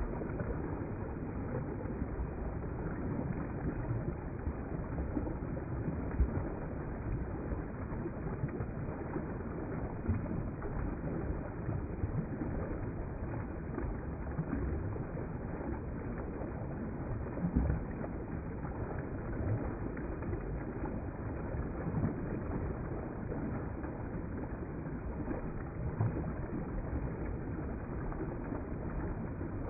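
River water flowing: a steady, low rushing with a few brief louder surges.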